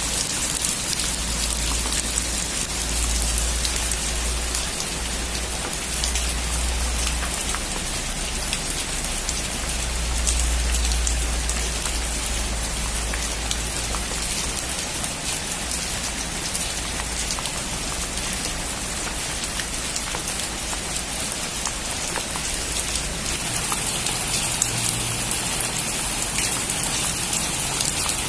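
Steady heavy rain falling and pattering on a surface, growing a little louder and hissier near the end. A deep low rumble swells and fades under the rain during the first half.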